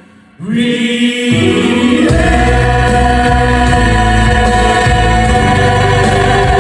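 Music with a choir singing long held notes. It comes back in after a brief drop about half a second in, and a low bass part joins around two seconds in.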